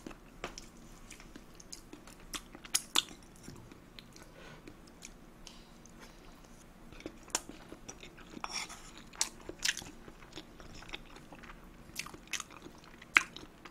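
Close-miked chewing and mouth sounds of a person eating tuna kimchi fried rice, with scattered short clicks and taps, busier in the second half.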